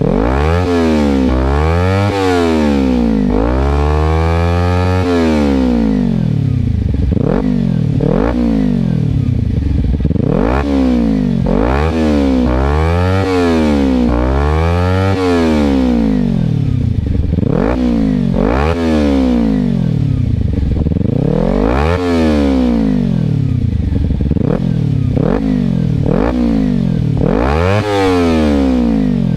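Kawasaki Ninja 300 parallel-twin with an aftermarket exhaust, revved over and over while standing: quick blips that rise and fall about once a second, with a longer, slower pull around four to five seconds in.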